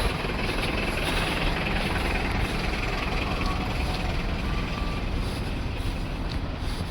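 Steady running of truck engines in a traffic jam, an even mechanical noise with no single standout event.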